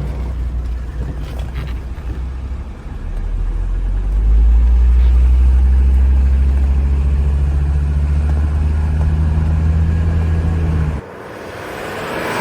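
Mercedes-Benz 300CD's five-cylinder turbo diesel engine running with a steady low rumble. It grows louder a few seconds in and cuts off suddenly near the end, followed by a brief rising and fading rush.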